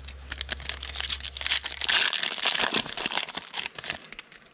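Crinkling and tearing of a foil trading card pack wrapper being ripped open, a dense crackle that is loudest in the middle and dies away near the end.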